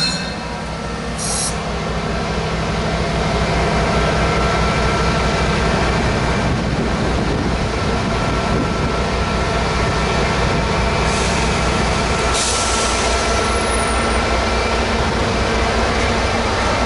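MBTA commuter rail coaches rolling slowly past the platform: a steady low rumble of wheels and running gear, with brief hisses about a second in and again near 12 seconds.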